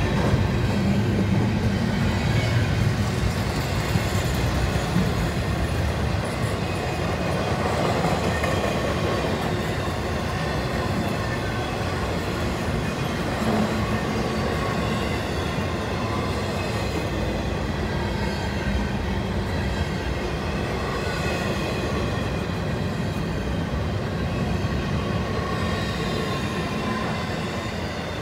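Freight train cars (flatcars carrying truck trailers and containers) rolling steadily past, giving a continuous low rumble of steel wheels on rail, with a thin high wheel squeal over it.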